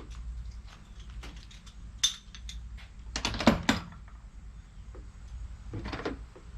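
Metal tools and parts clinking and clattering in irregular clicks and clanks, with a sharp knock about two seconds in and a louder run of clanks around three and a half seconds.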